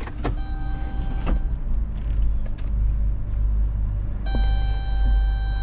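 Car engine running with a steady low rumble, with a few sharp clicks in the first second and a half. A steady electronic tone comes in about four seconds in and holds.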